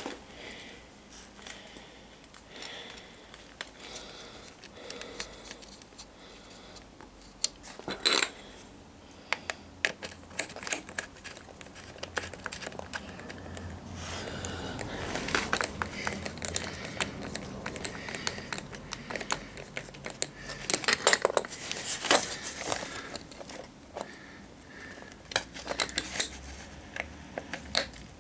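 Irregular light clicking and clattering of small hard objects, louder in clusters, with a faint low hum through the middle stretch.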